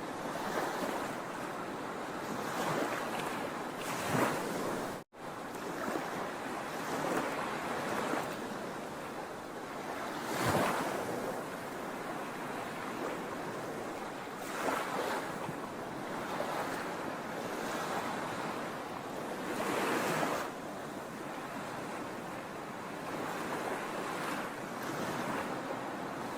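Ocean waves washing onto a shore: a continuous surf rush that swells louder every few seconds as each wave breaks. About five seconds in, the sound cuts out for a split second.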